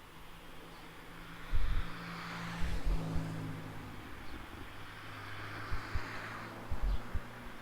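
Road traffic passing, swelling twice as vehicles go by, with a steady low hum and several low thumps on the microphone.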